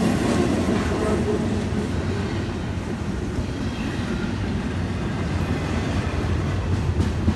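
Freight cars of a Florida East Coast train rolling steadily past: a continuous rumble of wheels on rail.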